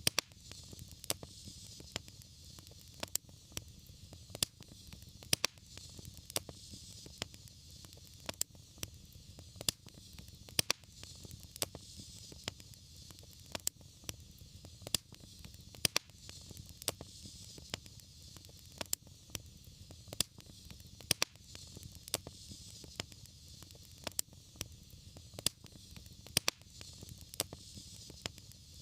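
Wood fire burning in a fireplace, crackling with frequent sharp, irregular pops over a low rumble and a soft hiss.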